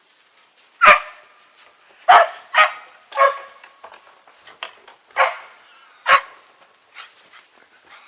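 A dog barking in short single barks, about six of them spread irregularly over some five seconds, two coming in quick succession, followed by a few fainter sounds.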